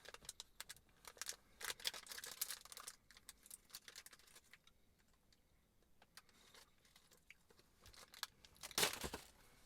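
Items being rummaged through and handled: bursts of crinkling and light clicks in the first few seconds and again near the end, with a quiet stretch in between.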